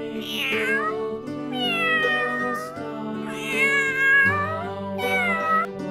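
Domestic cat meowing four times, the second meow long and drawn out, over steady background music.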